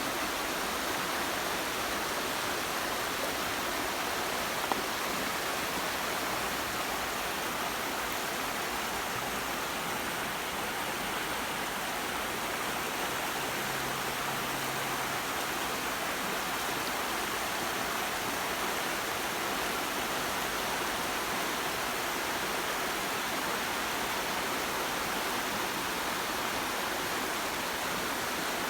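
Steady rush of river water running over rapids, with a single short click about five seconds in.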